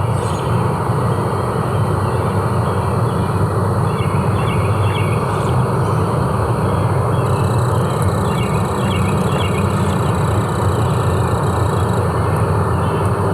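Forest ambience: a steady low rumble with groups of short high chirps recurring every few seconds.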